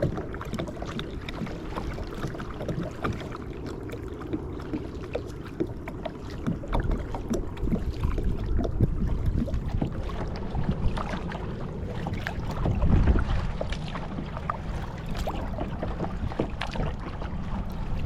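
Kayak paddling: the paddle blades dip and splash in the water with scattered drips and small knocks, over a low wind rumble on the microphone that swells briefly about two-thirds of the way through.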